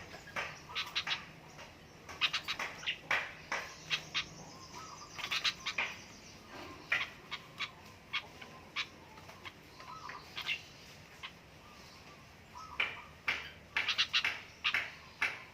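Small birds, just caught, giving short sharp chirps and squawks in irregular clusters.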